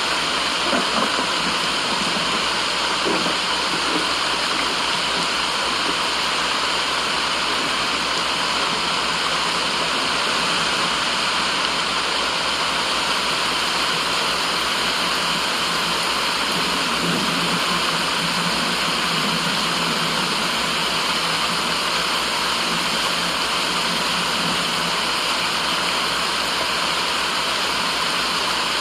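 Steady, even rushing white noise with no change in level throughout.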